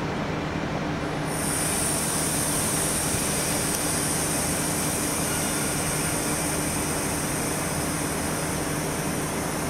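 Intercidades train of Corail carriages standing at the platform, giving a steady hum with low tones. A high steady hiss comes in about a second in and holds.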